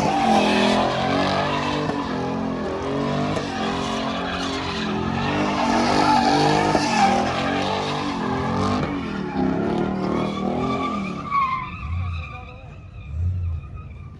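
Pickup truck engine revving hard with tires squealing and skidding, as in a burnout. It eases off about eleven seconds in, leaving a couple of low thumps.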